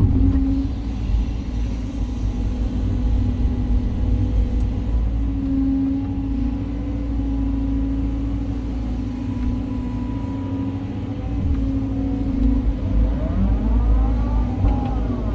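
Cat 323 hydraulic excavator working, its diesel engine running with a steady rumble. A whine rises and falls in pitch near the end.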